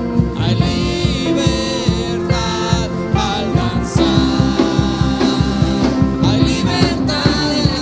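Live worship band playing a song with a sung vocal over a steady drum beat.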